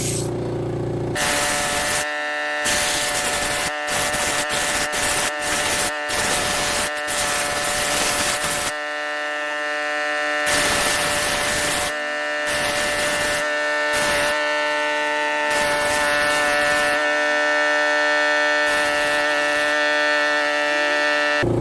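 Electric power tool working a walnut bowl: a steady motor whine under a rough hiss of the tool cutting or abrading the wood, with frequent brief breaks in the sound.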